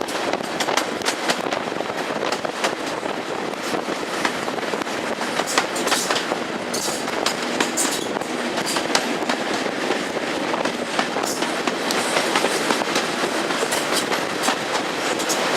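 Train running along the track, its wheels clattering and clicking over the rails in a steady stream of sharp knocks.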